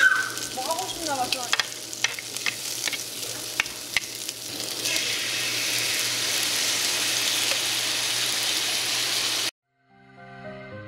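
Sausage pieces and rice cakes frying in a non-stick pan, with scattered pops and clicks. About five seconds in the sizzle turns loud and steady once the red sauce is in the pan, then cuts off suddenly near the end.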